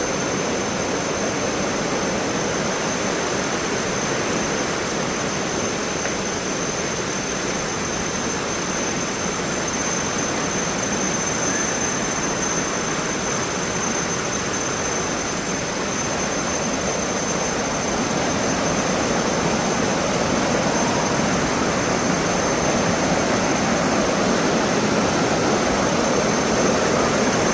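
Thomson's Falls, a 74-metre waterfall, heard from its base: a steady roar of falling water, a little louder over the last third.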